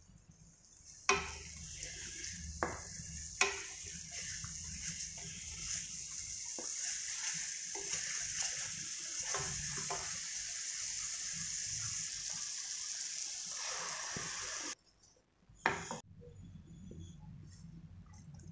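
Masala paste sizzling as it fries in an aluminium kadai, stirred and scraped with a wooden spatula, with three sharp knocks of the spatula against the pan in the first few seconds. The sizzle cuts off suddenly about fifteen seconds in, followed by one more knock and a quieter stretch.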